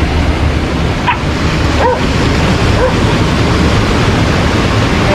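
A few short dog barks and yips, about one, two and three seconds in and again near the end, over steady surf and wind noise on the microphone.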